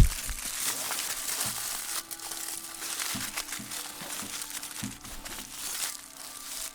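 Crinkling, crumpling handling noise with a few soft knocks.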